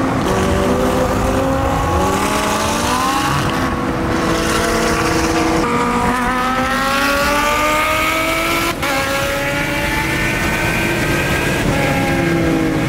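High-performance car engine accelerating hard at highway speed, heard from inside a car. Its pitch climbs steadily and falls back at two gear changes, about two seconds in and again near six seconds.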